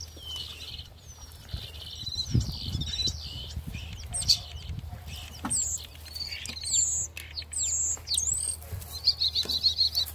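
Songbird chirps and whistles, a string of varied short notes that glide up and down, ending in a quick trill of repeated notes.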